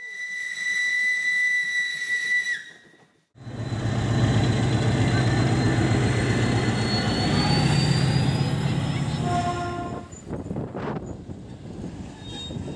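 A steam locomotive whistle blows one steady note for about two and a half seconds and dips in pitch as it stops. After a short gap, a diesel locomotive runs loudly as it pulls past, with a slowly rising whine above the engine. Near the end come a few short tones and a sharp knock.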